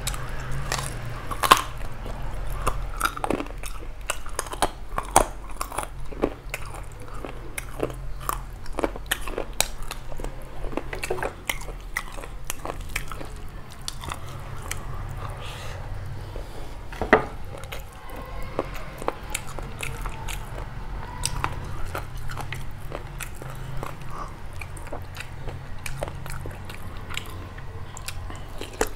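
Close-up chewing and mouth sounds of a man eating beef curry and rice by hand: a steady run of irregular wet clicks, with two sharper ones, about a second and a half in and a little past the middle, over a steady low hum.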